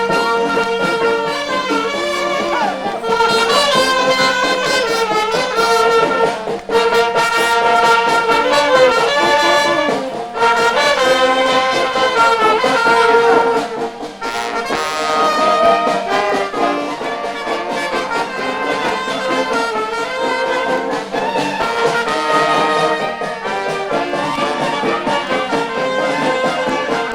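Brass band music: trumpets and trombones playing a melody, with short breaks between phrases.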